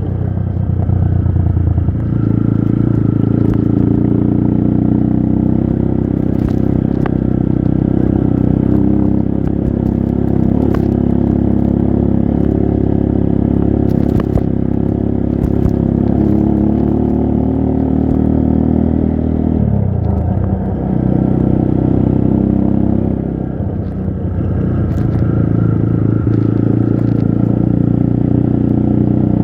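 Trail motorcycle engine running, its pitch shifting as the revs rise and fall; the revs drop about two-thirds of the way through and climb again. Scattered clicks and clatter sound over the engine.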